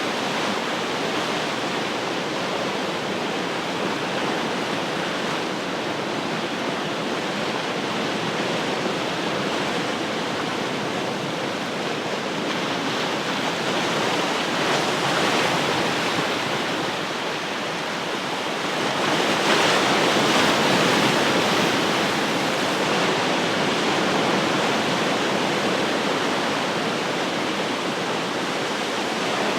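Ocean surf washing steadily on the shore, with waves breaking louder about halfway through and again about two-thirds of the way in.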